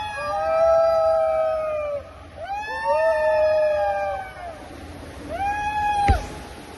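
Long drawn-out howling calls, each held for about two seconds, two of them overlapping at times; one call drops sharply in pitch and breaks off about six seconds in.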